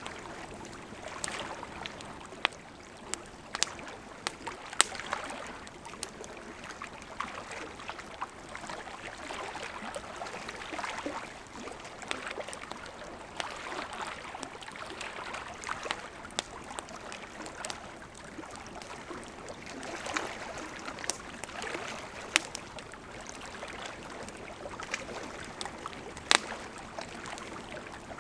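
Campfire of burning wood crackling: a steady soft hiss and rustle with frequent irregular sharp pops, a few of them much louder than the rest.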